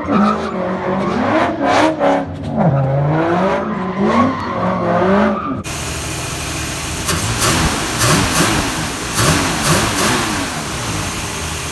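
A car engine revving in repeated rises and falls. About five and a half seconds in, a sudden cut brings a different engine, revved by hand at its throttle body in a hissier, rising and falling run of revs.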